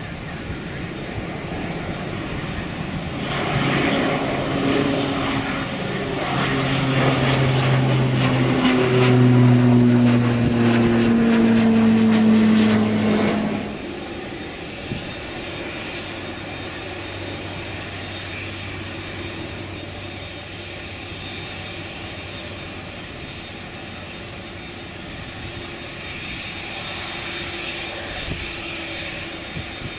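Boeing 747-400's four Rolls-Royce RB211 turbofan engines passing close by, their whine sliding down in pitch as the jet goes past. The sound drops off sharply about halfway through, leaving a steadier, quieter rumble that swells a little near the end.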